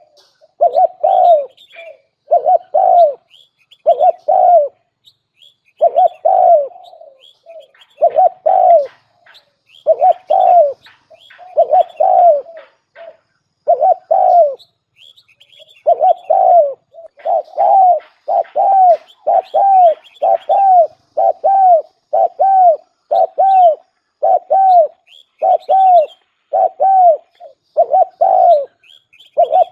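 Spotted dove cooing over and over: a decoy bird's call used to lure wild doves, short arched coos in phrases broken by brief pauses. Faint high chirps of small birds sound behind it.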